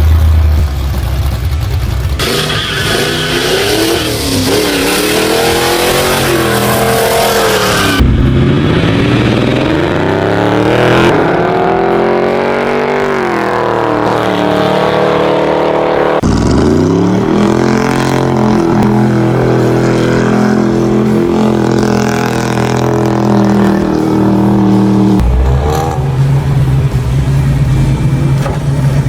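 Classic Ford Mustang V8 engines revving and accelerating hard, the engine pitch sweeping up as the cars pull away. The sound switches abruptly several times from one car to the next.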